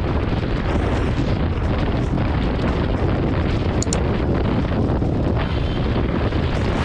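Steady, heavy wind noise buffeting a motorcycle-mounted camera microphone while riding, with the motorcycle's running noise mixed in underneath.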